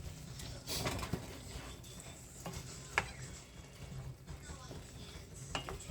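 Cooking utensils clinking and knocking against a pan now and then, with one sharp clink about three seconds in.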